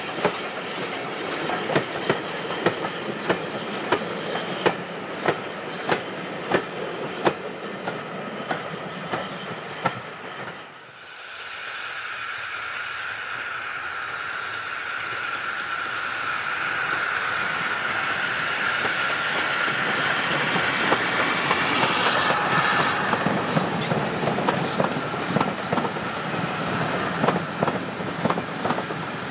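Steam-hauled passenger trains running slowly past, the wheels clicking regularly over the rail joints. After a break about ten seconds in, a second train comes round a curve with a steady high wheel squeal over its rumble, and the clicking returns as its coaches roll by.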